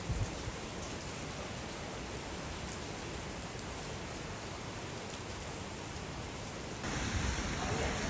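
Heavy rain falling steadily, an even hiss. A brief low knock comes right at the start, and about seven seconds in the rain abruptly becomes louder and brighter.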